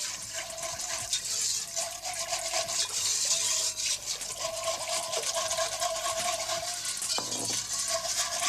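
A sauce being stirred in a cooking pot as muscadet wine is added to the roux: continuous wet scraping and sloshing.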